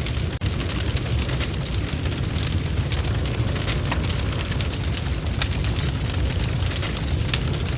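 Bonfire crackling: a steady low rumble of flames with many sharp, irregular snaps and pops, and a momentary gap about half a second in.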